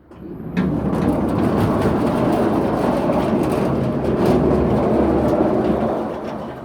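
Motorized garage gate running: a steady, loud rumble of the gate motor and the gate rolling along its track, starting abruptly about half a second in and fading near the end. It is a test run to check whether the repositioned guide part still lets the gate hit.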